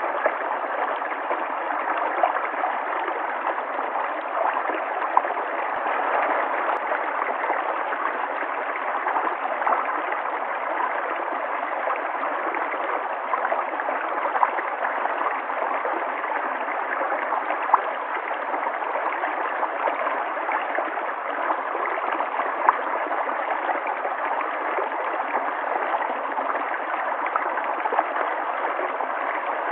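A river flowing: a steady rush of running water, with small gurgles and brief splashes popping out every few seconds.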